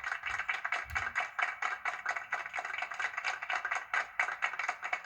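A toy mechanism clicking in a rapid, even run of small clicks, about eight to ten a second.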